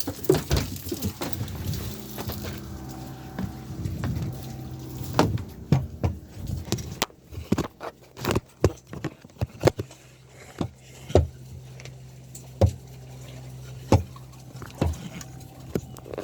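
Irregular knocks and clicks, as of cookware and utensils being handled, over a steady low hum.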